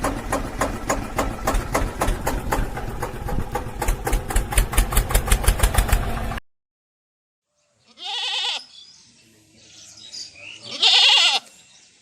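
An engine running with a fast chugging beat that quickens, cutting off abruptly after about six seconds. After a pause, a goat bleats twice, the second call louder.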